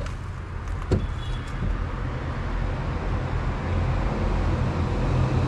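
Mahindra Scorpio engine idling, heard from beneath the vehicle as a steady low rumble, with one sharp click about a second in.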